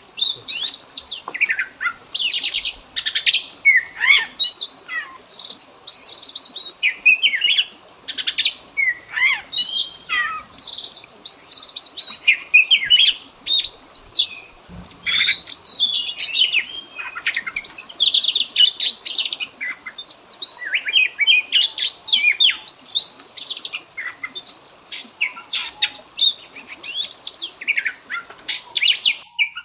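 Oriental magpie-robin (kacer) singing continuously: a fast, varied stream of whistles, chirps and trills, rising and falling in pitch, with hardly a pause.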